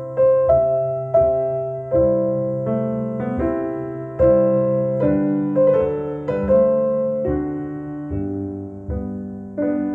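Solo piano music played back through Bowers & Wilkins 803 D4 floorstanding speakers driven by a McIntosh MA5300 integrated amplifier: slow notes and chords, each struck and left to ring and fade.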